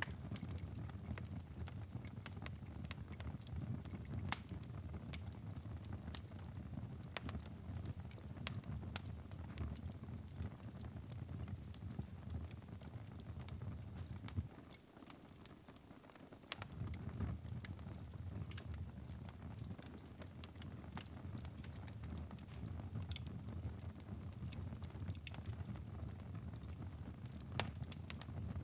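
Wood fire crackling in a fireplace: frequent sharp pops and snaps over a low, steady rumble of the flames. The rumble briefly drops away about halfway through.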